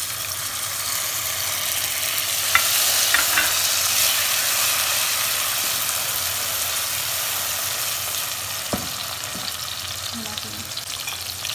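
Chopped tomatoes sizzling in hot oil with fried onions, a steady frying hiss, stirred with a slotted spatula that scrapes and clicks against the pan a few times around three seconds in and once near the end.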